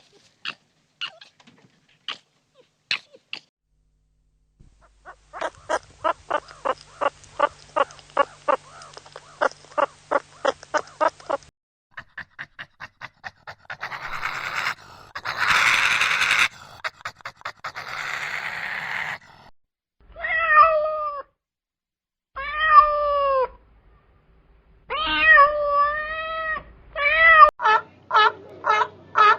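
A string of animal calls: rapid clicking chatter, then a hissing stretch, then several drawn-out, bending meow-like cat calls, ending in quick repeated yips.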